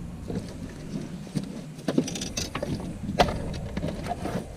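Scattered knocks and light clatter of handling in a small fishing boat, with a steady low hum underneath; the sharpest knock comes about three seconds in.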